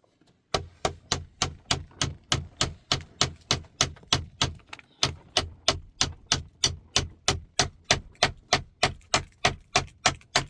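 Hammer strikes in a fast, steady rhythm, about three and a half blows a second, each a sharp knock with a dull low thud.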